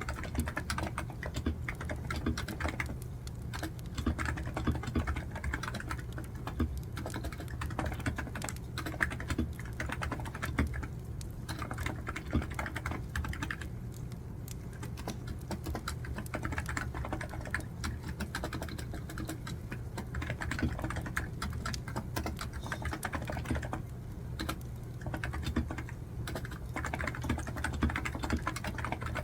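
Typing on a computer keyboard: fast, continuous key clicks with a few short lulls.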